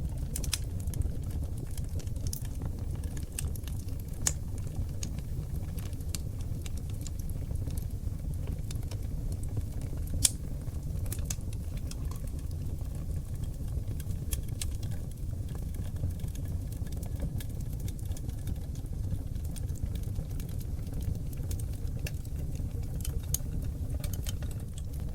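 Wood fire of oak logs burning in a fireplace: a steady low rumble of flame with frequent sharp crackles and pops, one louder pop about ten seconds in.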